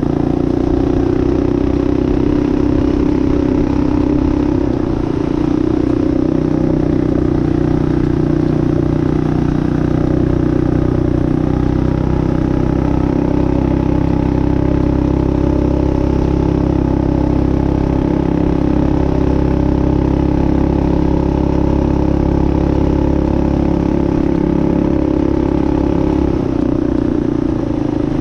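Minibike's built Tillotson 212 single-cylinder four-stroke engine running steadily under way. The engine note dips briefly about five seconds in and again near the end.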